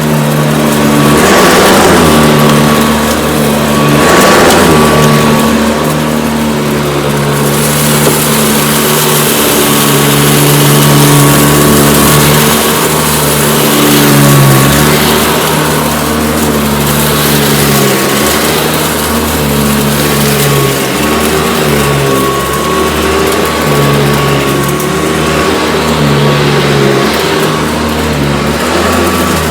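Hoover Decade 80 upright vacuum cleaner running, its motor hum steady with a thin high whine, rising and dipping slightly in pitch and loudness over and over.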